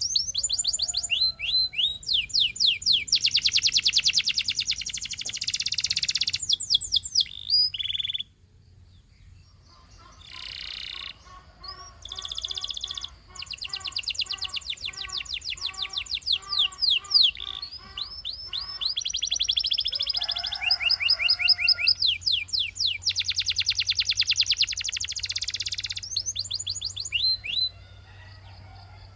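Canary singing: long trills of fast, evenly repeated high notes alternating with sweeping chirps. There is a short lull about eight seconds in, followed by a run of lower, slower repeated notes before the rapid trills resume.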